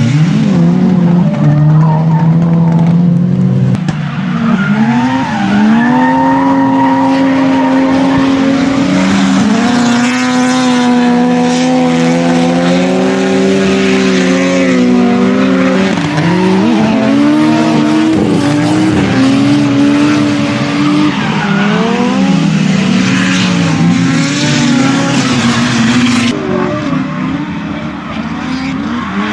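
Drift car's engine revving hard, its pitch rising and falling and stepping with repeated gear changes, with tyres squealing and skidding through the run.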